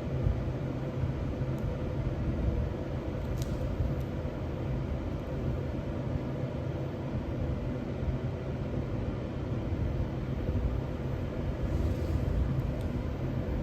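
Steady low rumble and hiss of running machinery, even throughout, with a faint steady hum.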